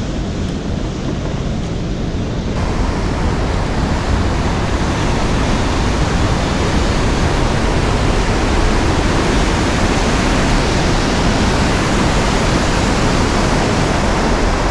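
Loud, steady rushing of fast-flowing water. The sound fills in and turns brighter about two and a half seconds in.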